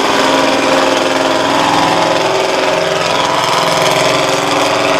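Monster truck engine running steadily at a low, even speed.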